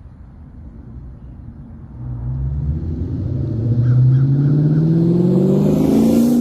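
Supercharged 4.6-litre V8 of a 2003 Mustang SVT Cobra through a Bassani exhaust: a low rumble, then about two seconds in the engine climbs in revs under throttle, its pitch rising steadily and growing louder for about four seconds.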